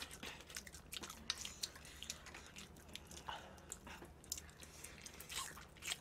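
Faint close-miked chewing: many small wet clicks and mouth sounds of someone eating seasoned fried chicken.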